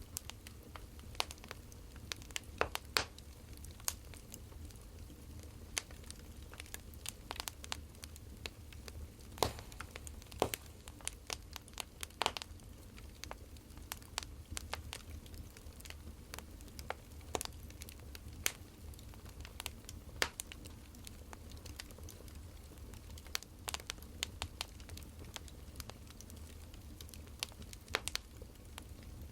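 Burning firewood crackling: irregular sharp snaps and pops over a low, steady rumble.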